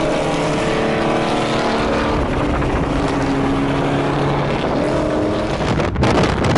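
Car engine running at steady highway speed with a hiss of wet road and rain beneath it, its pitch drifting slightly. About six seconds in, a rough crackling noise takes over.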